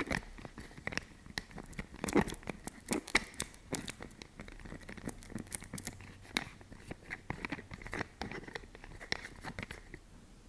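Lid of a fish oil supplement container handled for ASMR, giving many irregular close-up taps and clicks, with a few louder strikes in the first few seconds.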